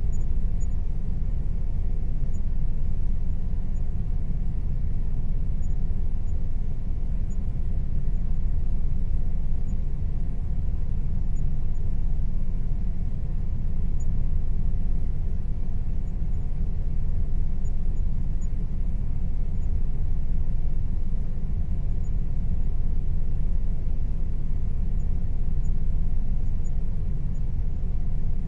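Air conditioner running steadily: a constant low rumble with a faint hum above it.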